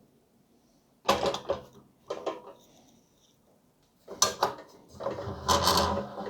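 Pressed-steel toy truck parts clanking and scraping as the tanker trailer is fitted back onto the cab: sharp knocks about a second in, at two seconds and at four seconds, then a longer stretch of rattling and scraping near the end.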